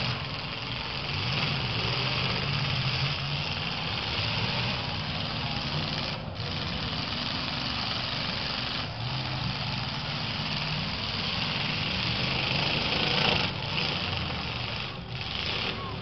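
Demolition derby cars' engines running and revving together in a steady mechanical din, their pitch shifting as the cars accelerate and manoeuvre.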